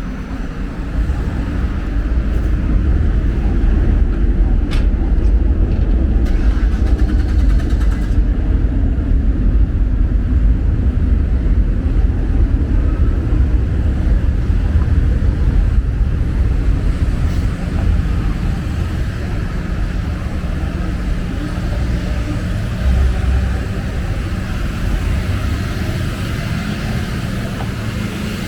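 City street traffic: a steady low rumble of passing vehicles, swelling for a while and then easing.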